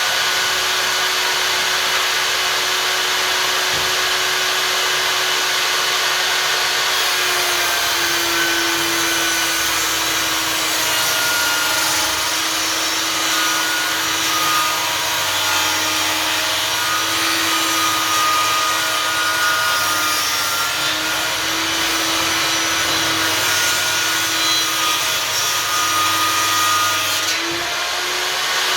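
Einhell table saw running and ripping a wooden board: a steady motor whine that dips and wavers under the load of the cut from about seven seconds in, picking back up near the end as the cut finishes.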